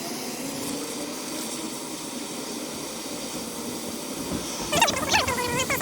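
Steady hiss of a torch flame heating a rusted, seized bolt. Near the end comes a short, louder high squeal that rises and falls in pitch.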